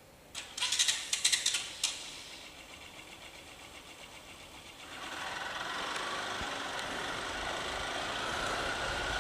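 A quick run of sharp clicks and rattles, then from about five seconds in the steady running of a motorcycle engine with road noise.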